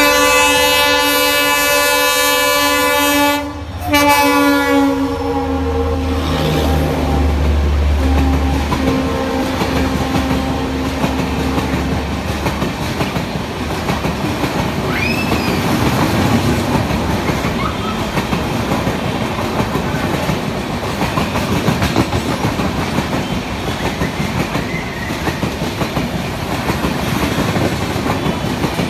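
Indian Railways diesel locomotive hauling an express passenger train, sounding its horn in a long blast, breaking briefly and blasting again as its pitch drops while it passes. Then a low diesel engine drone for several seconds, and after that the coaches rumbling and clattering over the rails.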